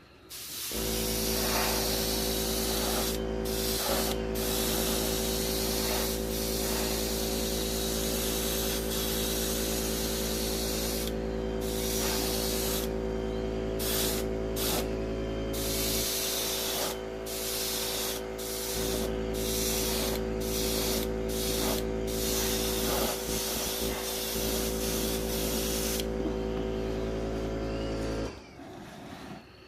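Airbrush spraying in repeated on-off bursts of hiss as the trigger is pressed and released, over the steady hum of an air compressor. The compressor starts about a second in and stops a little before the end.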